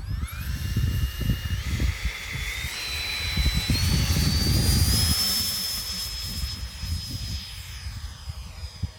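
Electric ducted-fan motor of a 75 mm Viper model jet on a 6S battery spooling up for takeoff. Its high whine climbs in pitch in steps over the first few seconds, then holds steady and fades slowly as the jet rolls out and lifts off. Gusty wind rumbles on the microphone underneath.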